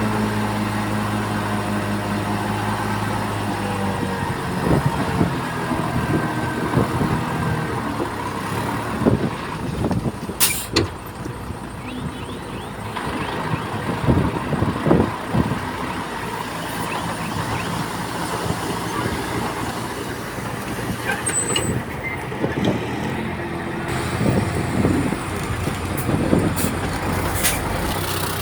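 Heavy diesel engine of a bulldozer working. It runs steadily at first, then changes with load from about four seconds in, with repeated knocks and clanks over it. A short hiss of air comes about ten seconds in.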